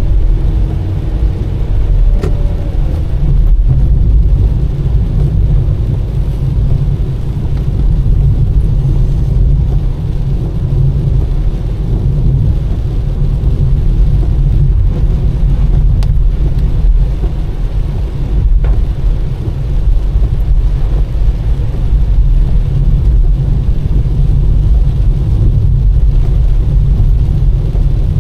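A car driving steadily, its engine and tyres making a continuous low rumble. A few faint ticks are heard along the way.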